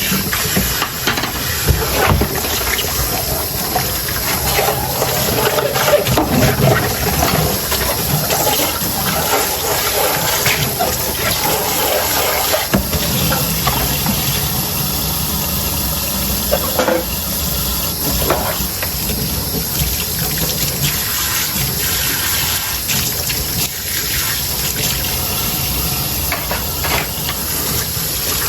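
Tap water running steadily into a kitchen sink during hand dishwashing, with dishes and utensils knocking and clinking now and then.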